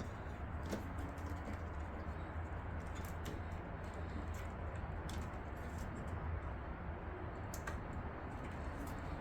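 Scattered light clicks and taps from hands handling computer parts and cables, a few times over several seconds, over a steady low hum.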